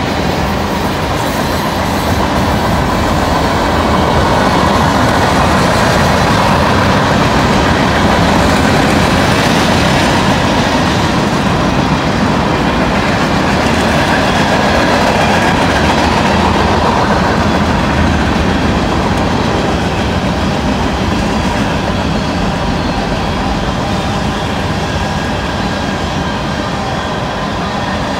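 Fast CSX freight train of mixed cars (covered hoppers, tank cars, gondolas) rolling past, its wheels on the rails making a loud, steady rolling noise.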